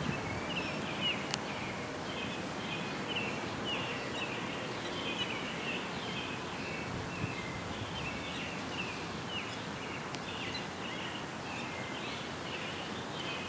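Bird chirping steadily, a quick run of short, high chirps several a second, over a steady outdoor background hiss.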